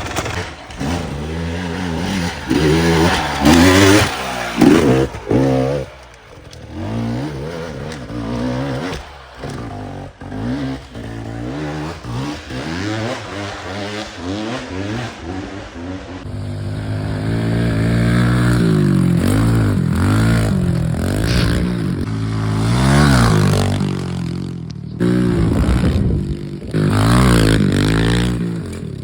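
Dirt bike engine revving up and down again and again as it is ridden, its pitch rising and falling with the throttle. The sound changes abruptly a little past halfway through, and the loudest revs come in the first few seconds.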